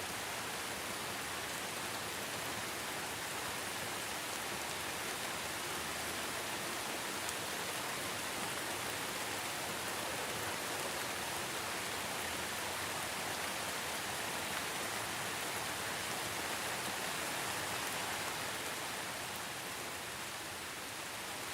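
Steady rainfall: a dense, even hiss of rain falling.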